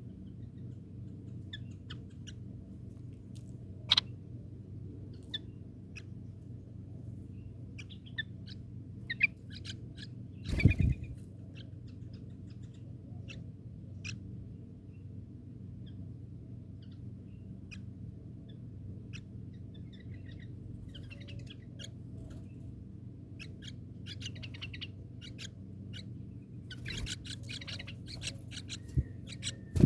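Birds chirping in short, scattered calls over a steady low hum, with a loud thump about eleven seconds in and a busier flurry of calls near the end.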